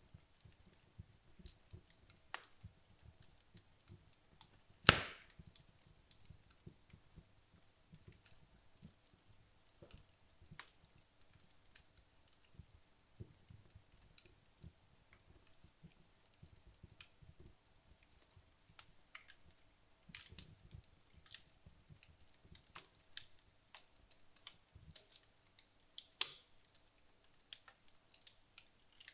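Wood logs burning in a fireplace, crackling with scattered small pops and one loud, sharp pop about five seconds in, followed later by a couple of smaller louder pops.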